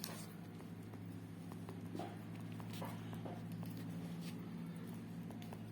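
A steady low hum with a few faint clicks and taps.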